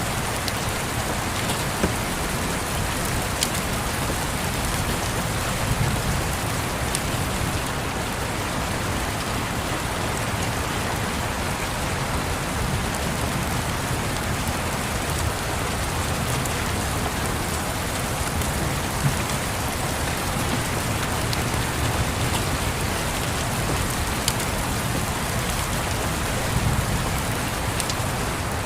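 Steady rain on windows, with scattered sharp crackles and pops from a wood fire.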